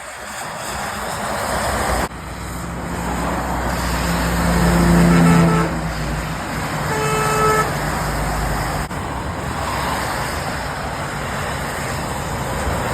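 Motorway traffic passing on a wet road, a steady hiss of tyres and spray. A heavy lorry's engine swells and passes, loudest about five seconds in. About seven seconds in a vehicle horn gives one short toot.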